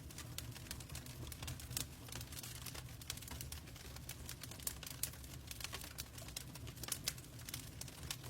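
Wood fire burning in a fireplace, crackling with many small sharp pops at an irregular rate over a low steady rumble.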